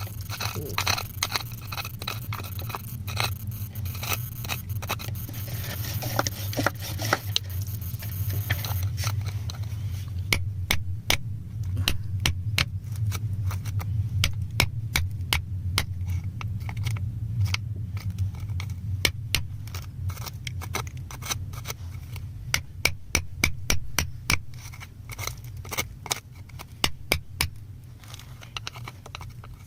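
Hand tools picking and scraping at rock while crystals are dug out: a dense run of sharp clicks, knocks and scrapes, thickest from about ten seconds in, over a steady low hum.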